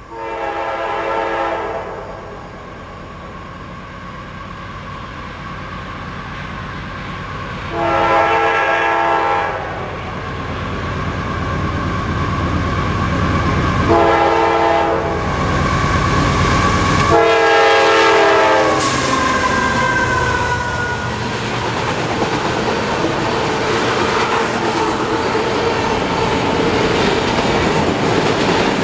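Freight locomotive's multi-chime air horn sounding the grade-crossing signal, long, long, short, long, as a CSX autorack freight train approaches, the rumble growing louder. After the last blast the locomotives and autorack cars pass close by, a steady loud rush and rumble of wheels on the rails.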